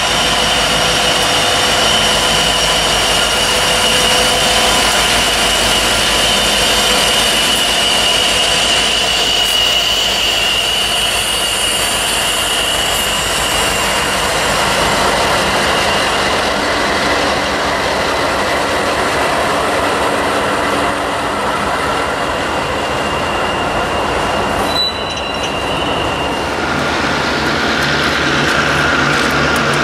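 Diesel-led freight train passing close by: the SOO Line EMD SD60 and a trailing locomotive go past, then autorack cars roll by with steady wheel-on-rail noise and a high steady whine over the first half. About 25 seconds in the sound changes abruptly to a steadier, more distant train rumble.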